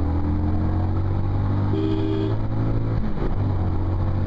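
Motorcycle engine running steadily under the rider, with a rushing noise over it from the sandstorm wind. A vehicle horn sounds briefly about two seconds in.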